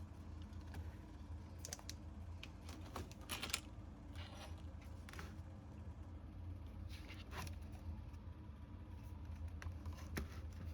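Irregular light clicks and short scrapes, like small hard parts being handled, over a steady low hum.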